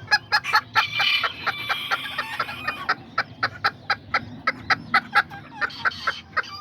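Kikiriki bantam chickens clucking in quick, dense succession, with one longer drawn-out call from about a second in to near three seconds in.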